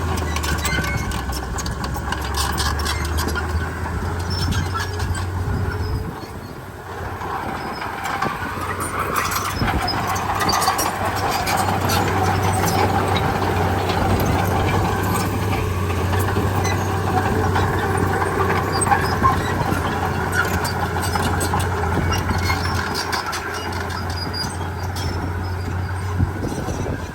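Heavy diesel earthmoving machinery running steadily under load, with metallic clanks and squeaks throughout. The engine note drops briefly about six seconds in, then picks up again.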